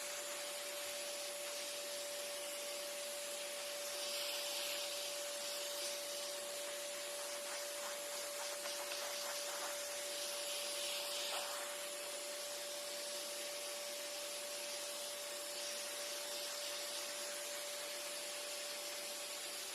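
Vacuum cleaner running with a micro detailing kit's small nozzle attached: a steady suction hiss with a constant whine. The hiss brightens twice as the nozzle works, and there are light ticks in the middle.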